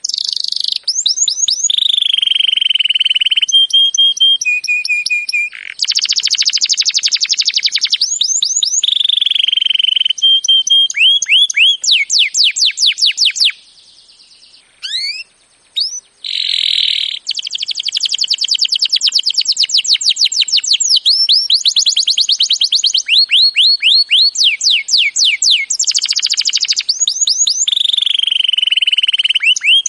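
Songbird singing a loud, fast, varied song: rapid runs of sweeping whistled notes, trills and short held tones. The song drops away briefly about halfway through, then resumes.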